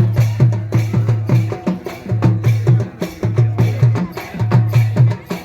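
Folk percussion music: drums beating a fast, steady rhythm with deep booming strokes and sharper clicking hits.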